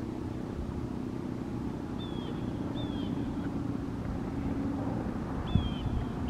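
Low, steady rumble with a faint hum underneath, and a small bird giving short descending chirps about two seconds in, again a second later, and near the end.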